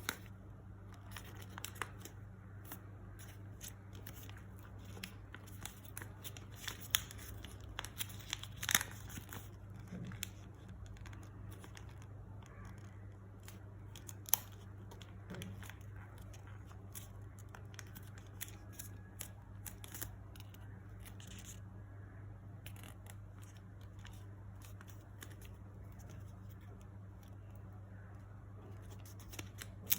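Paper being handled and creased while folding an origami model: scattered short rustles and crinkles, over a steady low hum.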